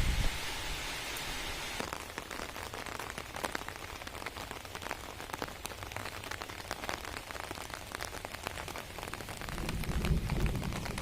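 Rain falling, with many separate drops ticking sharply on surfaces over a steady hiss. A low rumble comes in near the end.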